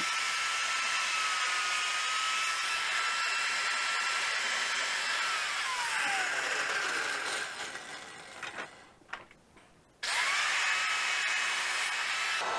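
Electric power saw running at a steady high whine while cutting through an inline fridge water filter's carbon block. About five seconds in it winds down and stops, leaving a few clicks. Near the end it is switched on again and spins straight back up to speed.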